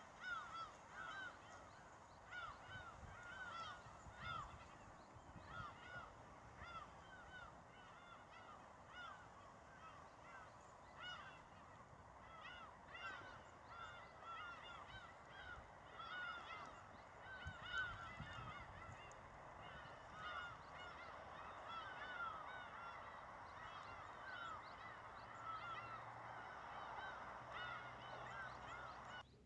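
A flock of geese honking, with many short calls overlapping in a steady chorus that cuts off suddenly at the end.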